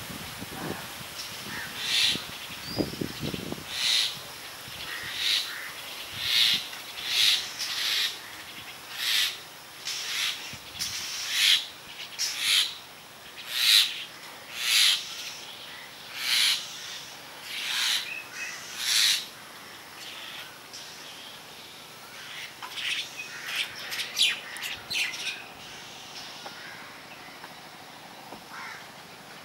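A bird calling over and over, a short call about once a second, then a quicker run of calls near the end.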